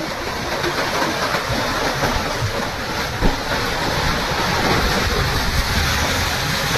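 Steady rushing noise of turbulent water with a heavy low rumble underneath, and one short knock about three seconds in.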